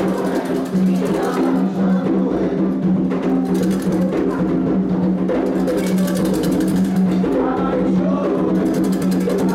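Candomblé ritual music: hand drums and percussion playing a fast, steady rhythm under voices singing a chant.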